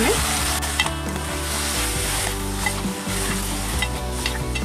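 Chicken pieces sizzling in hot oil with browned onions and ginger-garlic paste as they are sautéed (bhuna) and stirred in the pot with a metal spoon, which gives a few light clinks and scrapes against the pot.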